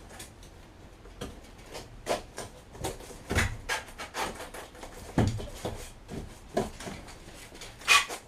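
Irregular knocks, taps and rubbing from hand work with wood and materials, with two heavier thumps about three and five seconds in and a sharp click near the end.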